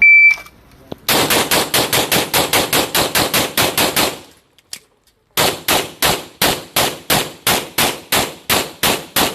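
A shot-timer beep, then a pistol fired in a fast string of shots, about five a second. After a pause of about a second for a reload, a second fast string of shots follows.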